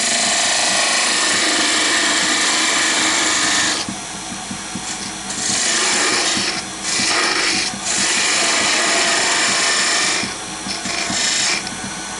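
A turning tool cutting spinning wood on a wood lathe, with the lathe's motor humming steadily underneath. The cut comes as a loud hissing scrape in several passes, the longest about four seconds, broken by short pauses where only the motor is heard. The section is being taken down to about 20 mm diameter.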